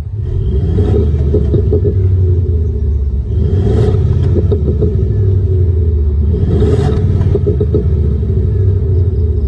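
Synthesized engine sound from a Thor active exhaust sound system's speakers on a Ford Mustang EcoBoost 2.3L: a deep steady rumble with three rev blips, about a second in, near four seconds and near seven seconds.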